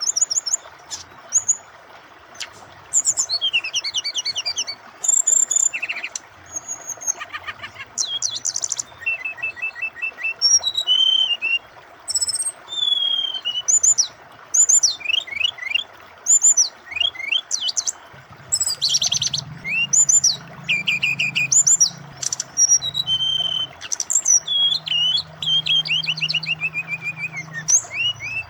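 Brown-chested jungle flycatcher (SRDC) singing a varied, continuous song of quick high whistles, trills and chirps with short pauses, over the steady rush of flowing water.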